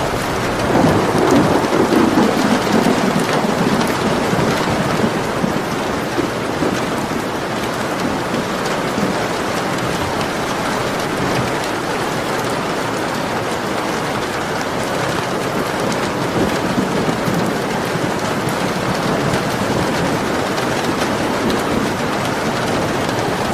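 Steady heavy rain falling, with a low rumble of thunder swelling up about a second in and fading over a few seconds.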